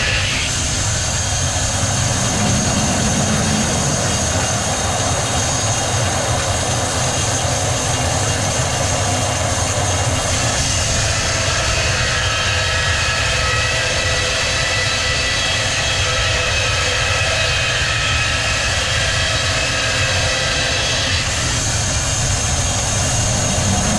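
Sawmill machinery running: a loud, steady roar with a high whine over it. The whine changes pitch and character about ten seconds in and again near the end.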